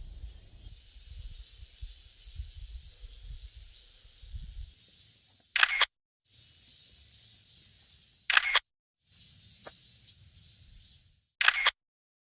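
Camera shutter click sounding three times, about three seconds apart, each followed by a moment of dead silence; a faint low rumble and hiss lies between them.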